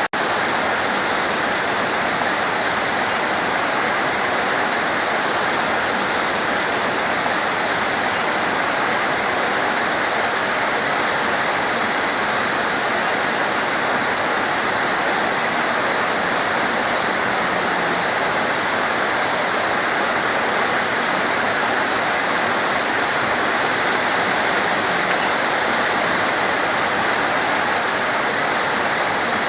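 Torrential rain falling: a dense, steady hiss of water that does not let up.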